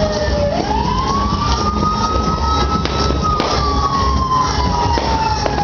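Siren wailing: its pitch rises sharply about half a second in, holds, then falls slowly, over a steady low rumble.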